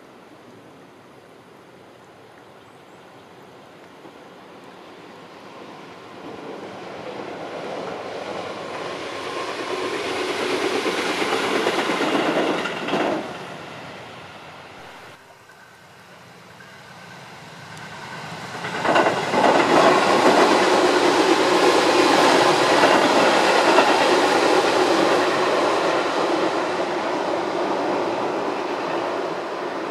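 Electric commuter train running along the Tobu Nikko Line. Its running noise builds over several seconds and cuts off abruptly about 13 seconds in. It comes back suddenly, louder, about 19 seconds in and holds steady.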